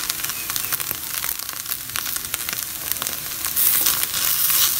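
Shredded chicken masala sizzling in a nonstick frying pan as a wooden spatula stirs and scrapes through it. The sizzle grows louder near the end.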